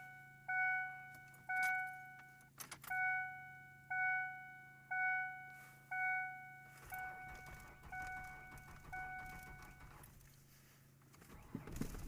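2001 Ford Ranger's dashboard warning chime ringing about once a second, loud at first and fainter after about seven seconds, before it stops near ten seconds. A low sound starts to build at the very end.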